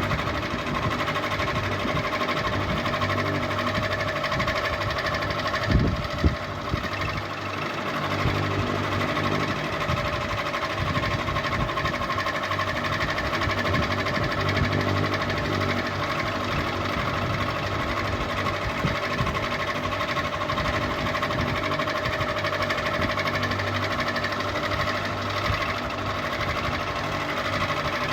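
Electric ceiling fan running steadily: a motor hum with a fast mechanical rattle, and two brief knocks about six seconds in.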